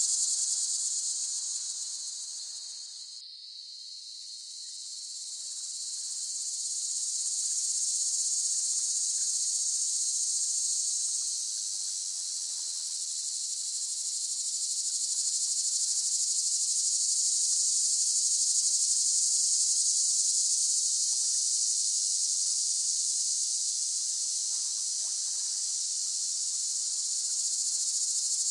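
A chorus of cicadas singing, a steady, dense, high-pitched buzz. It fades down briefly about three seconds in, then swells back and holds.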